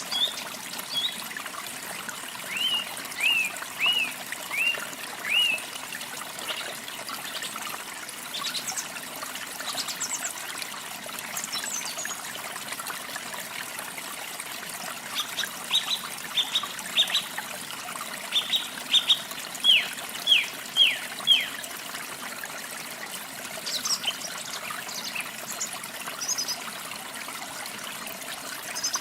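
Small birds chirping in quick runs of short, sharp, downward-slurred notes over a steady trickle of running water. One run comes a few seconds in, a louder, longer run comes past the middle, and higher, thinner chirps come near the end.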